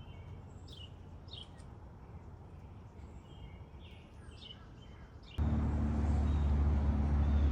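Birds chirping and calling in short phrases over a quiet outdoor background. About five seconds in, a louder steady low drone cuts in suddenly and holds.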